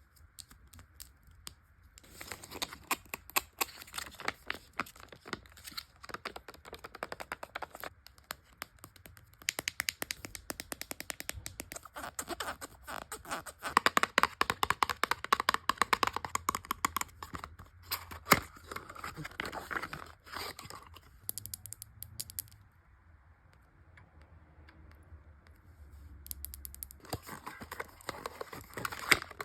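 Close-miked handling of cosmetics packaging: a dense run of taps, clicks and rustles, with a quieter pause about three quarters of the way through before the tapping picks up again.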